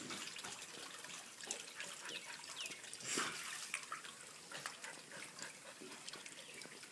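Faint water splashing and dripping as a dog paddles in a pool, with scattered small splashes and a few short, high, falling squeaks.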